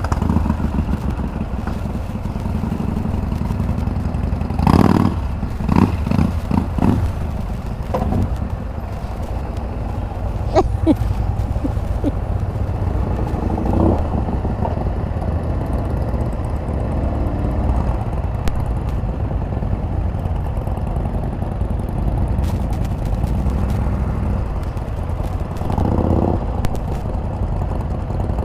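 Can-Am Spyder RT three-wheeler's engine running steadily under way, with road and wind noise and a few louder swells around five seconds in and near the end.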